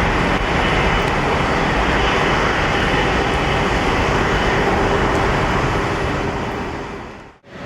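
Steady noise of a jet airliner's engines, fading briefly to silence near the end before coming back.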